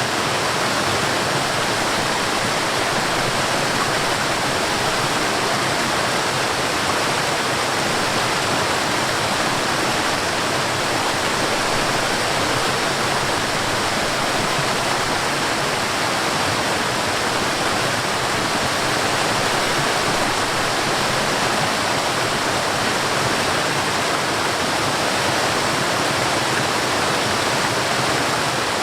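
Mountain stream and waterfall running in a steady, unbroken rush of water.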